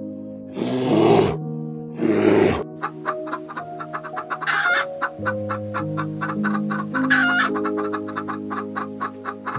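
Two loud growling bursts in the first few seconds, then chickens clucking in quick, rapid strokes with a couple of louder squawks, over steady background music.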